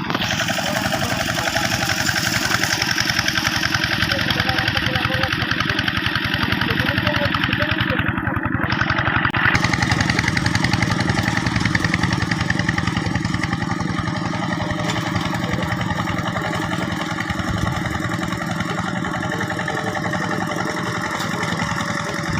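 Single-cylinder diesel engine of a two-wheel hand tractor running steadily with a rapid even chug, a little louder around the middle.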